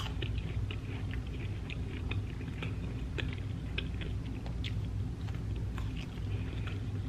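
A person chewing a mouthful of food close to the microphone, with soft, wet mouth clicks scattered throughout.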